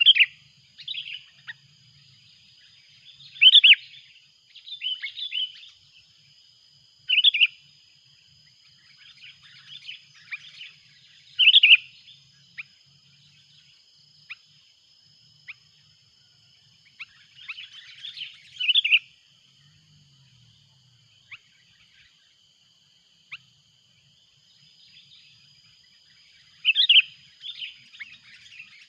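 Sooty-headed bulbul giving short, loud call phrases every few seconds, with gaps of quiet between them, over a faint steady high-pitched whine.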